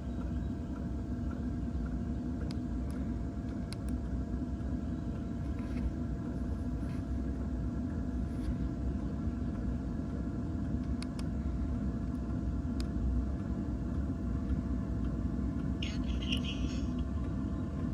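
Maxspeedingrods 5 kW diesel air heater running during start-up: a steady low rumble and hum from its blower, with faint ticks every second or two from its diesel fuel pump.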